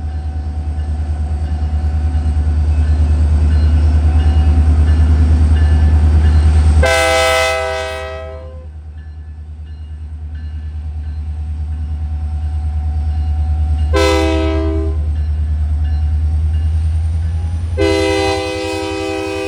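Diesel locomotive running close by with a heavy low engine rumble, and its multi-note air horn blowing three times: a blast of about a second and a half, a shorter one of about a second, and a third that starts near the end and is still sounding.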